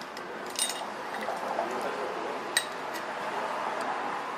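Light metallic clinks of small tools or parts being handled: a short clink about half a second in and a sharper, ringing one about two and a half seconds in, over low workshop background noise.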